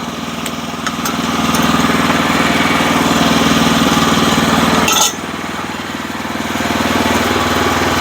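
Sawmill's small gasoline engine running steadily under load. Its sound drops suddenly about five seconds in and builds back up over the next couple of seconds.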